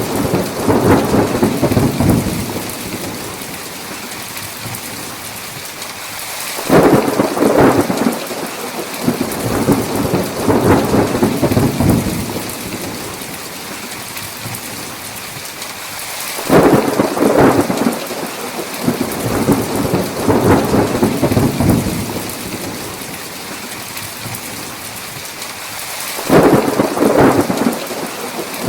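Steady heavy rain hissing, with rolls of thunder about every ten seconds, each starting sharply and rumbling for several seconds before fading back into the rain.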